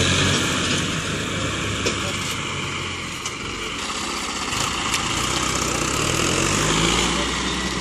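Tractor diesel engines running hard under load in a tractor tug-of-war. The engine note sinks and weakens a few seconds in, then climbs again near the end.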